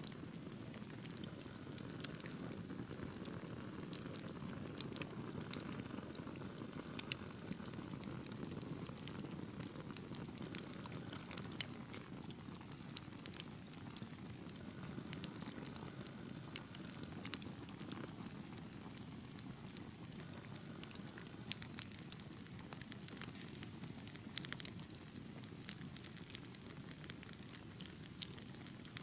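Wood fire crackling: a low, steady rush of flames with frequent irregular sharp pops and snaps.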